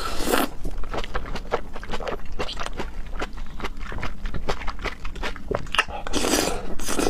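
Close-up wet chewing of a large raw oyster: many quick smacking mouth clicks, with a longer rush of noisy eating sound about six seconds in.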